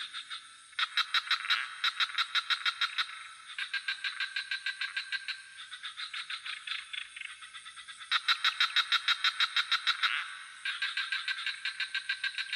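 A chorus of frogs calling in rapid pulsed trills of about six pulses a second. Each bout lasts about two seconds, and several callers overlap and answer one another. A steady high-pitched insect drone, typical of crickets, runs beneath them.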